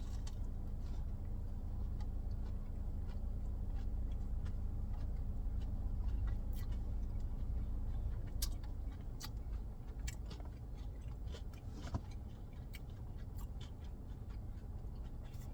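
Steady low rumble of an idling car heard from inside the cabin, with scattered small clicks and smacks of someone chewing and handling a chicken biscuit sandwich.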